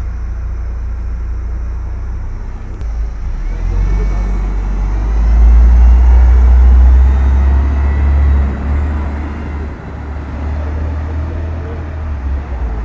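City bus engine running and pulling away: a deep rumble that swells about three seconds in, is loudest midway with a faint rising whine above it, then eases off.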